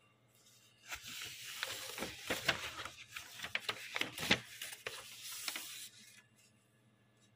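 Close rustling and scratching noise peppered with small clicks, starting about a second in and stopping about a second before the end.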